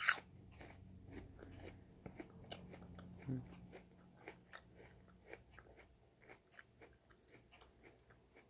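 A person chewing food close to the microphone: many small crunching and wet mouth clicks, with one louder click at the start.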